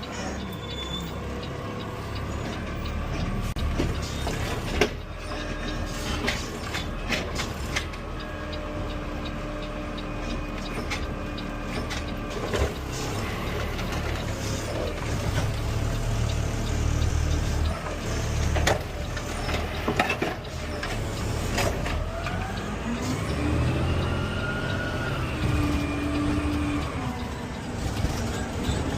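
CNG Peterbilt 520 automated side-loader garbage truck running, with scattered knocks and clatter, and a whine near the end that rises and then falls.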